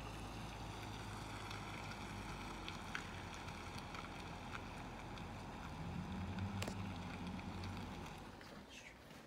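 Distant car engine running with a low steady hum. It grows louder about six seconds in, then fades away near the end as the car pulls off.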